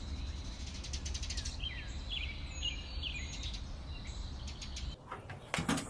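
Small birds chirping, with short sliding calls and quick trills, over a steady low hum. The hum cuts off about five seconds in, and a few sharp knocks follow.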